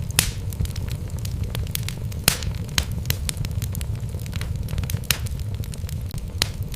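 Wood fire burning in a fireplace: a steady low rumble of flames with frequent sharp crackles and pops from the logs, a few louder snaps standing out near the start and about two seconds in.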